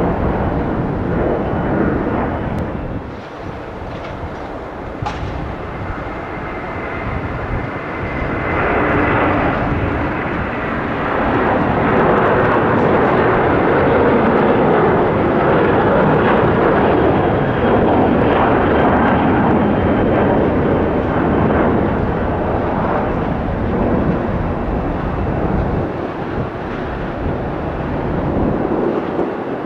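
Jet airliner's engines passing by: a rushing jet noise that builds after the first several seconds, stays strong through the middle and eases off near the end.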